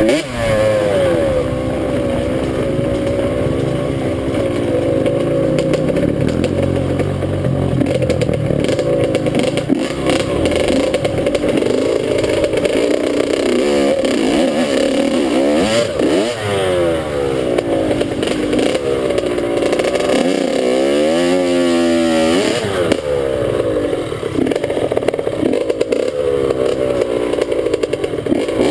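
Dirt bike engine running under throttle as it is ridden, its pitch rising and falling with speed and gear changes, with a long climb in revs about two-thirds of the way through.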